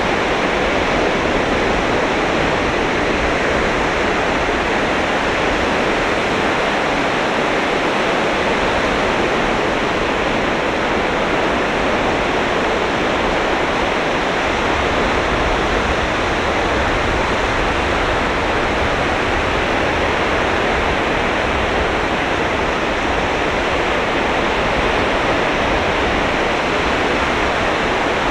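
Surf on a beach: sea waves breaking in a steady, even rush, with no single breaker standing out.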